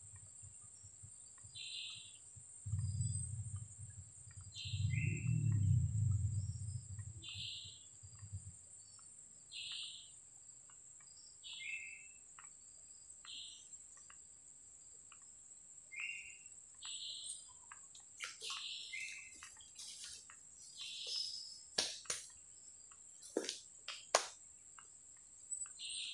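A bird calling over and over, one short call every second and a half to two seconds, some with a second lower note, over a steady high insect drone. A low rumble comes in about three seconds in and fades by eight seconds, and a few sharp clicks sound near the end.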